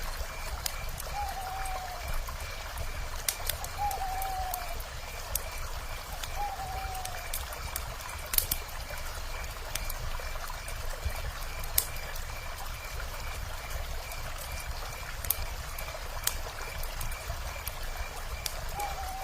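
Wood fire crackling with scattered sharp pops over the steady rush of a river. An owl gives a short falling call three times in the first seven seconds, with a faint steady high pulsing in the background.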